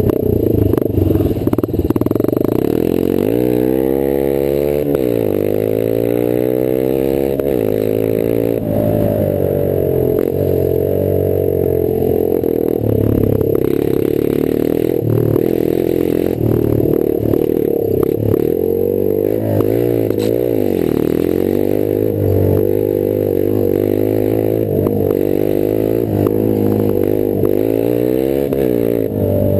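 Rieju Marathon 125 AC's air-cooled single-cylinder engine running through an open, free-flowing exhaust, its revs rising and falling over and over as the bike is ridden along a rough dirt trail. Scattered knocks and rattles come from the bike on the stony ground.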